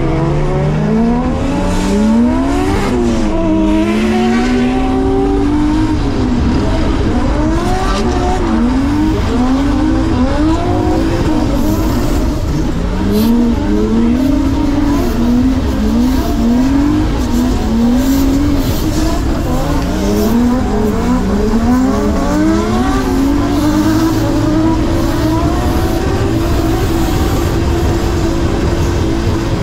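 Drift car's 2JZ straight-six engine heard from inside the cabin, revving up and down over and over through a drift run, then holding steady high revs for the last few seconds.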